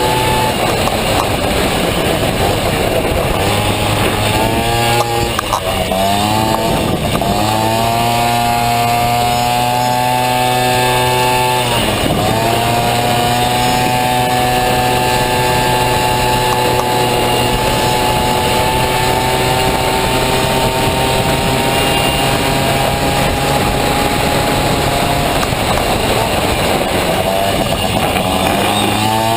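Honda Dio two-stroke scooter engine, fitted in a Honda Motocompo, running hard at high revs. Its pitch drops and recovers twice in the first twelve seconds, then climbs slowly over a long stretch before falling again near the end.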